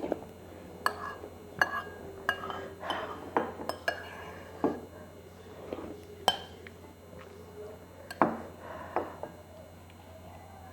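Metal cutlery clinking and scraping against a bowl during eating: irregular sharp clicks, some ringing briefly.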